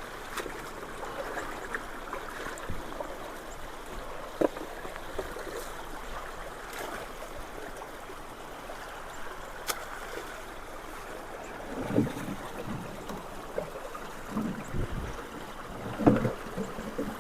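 Floodwater rushing steadily through a clogged culvert, with a few short knocks and splashes in the second half as debris is worked loose.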